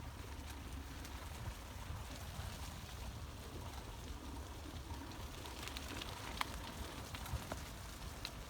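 Bicycle riding over a rough surface: a steady low rumble with scattered small crackles and ticks, one sharper tick about six seconds in.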